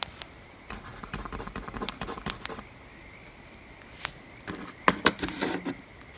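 Pencil writing on paper: scratchy strokes in the first two and a half seconds, then a sharp click about four seconds in and a cluster of louder taps and clicks around five seconds in.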